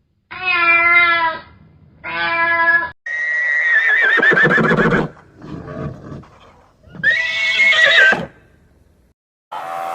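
A cat meows twice. Then a horse whinnies twice, each a long, high, quavering call, with a shorter low sound between them.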